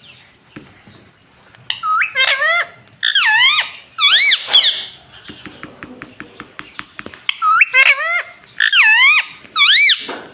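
Ringneck parrot giving a string of shrill, pitch-swooping squawks, pausing for a fast run of clicks in the middle, then squawking again.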